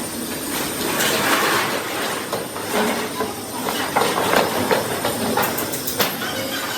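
Steady mechanical clatter and hiss with scattered sharp knocks, like workshop noise from metalworking.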